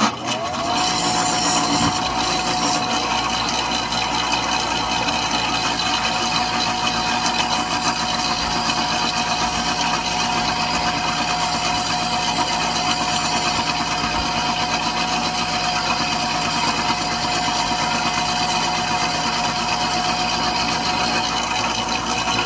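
Electric sharpening grinder motor spinning up, its whine rising in the first second, then running at a steady pitch while a roughing gouge is honed on it.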